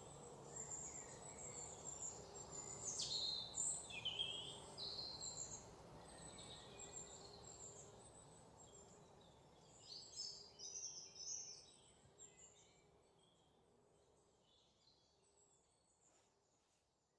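Small birds chirping and calling, with quick falling whistled notes, over a faint steady background hiss; the sound fades out toward the end.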